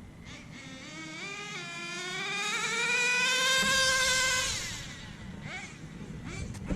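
Nitro RC car's engine accelerating hard on a speed run, its whine climbing in pitch with a step about a second and a half in where the two-speed transmission shifts up. It gets loudest as it passes, then fades away. The upshift comes way too early for the owner, who is adjusting it to shift later.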